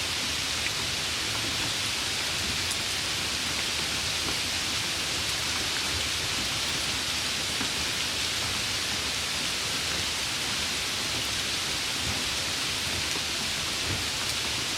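Steady summer rain: an even, unbroken hiss of rainfall with a few faint individual drops ticking through it.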